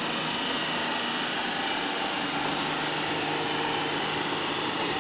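Small hatchback's engine running steadily at low revs as the car creeps through a driving-test course, with a constant background hiss.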